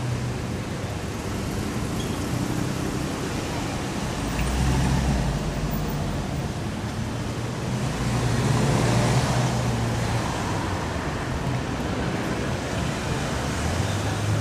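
Road traffic ambience: a steady hum of vehicles, with one passing close and louder a little past the middle.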